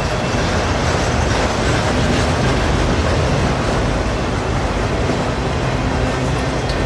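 Freight train of autorack (vehicle-carrier) cars rolling past close by: a steady, loud noise of steel wheels running on the rails.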